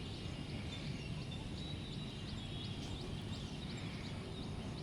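Birds chirping: short high calls repeated a couple of times a second, with a thin steady high tone, over a steady low rushing noise.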